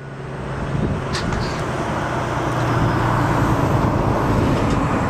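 Heavy diesel dump truck engine running, its sound building gradually under a growing rush of noise.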